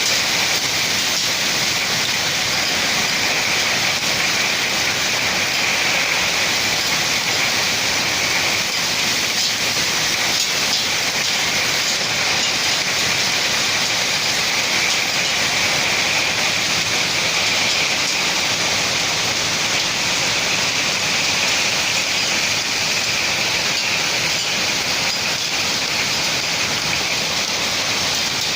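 Heavy storm rain pouring down in a steady, even hiss without let-up.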